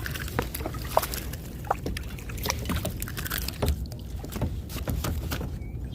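Irregular knocks and clicks of fishing gear being handled in a kayak, over a steady low rumble.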